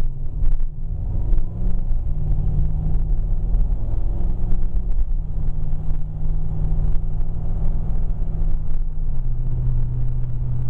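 Car engine and exhaust through a Flo-Pro muffler, heard inside the closed cabin while accelerating: a low, steady drone whose pitch shifts in steps a few times as the car pulls up through the gears.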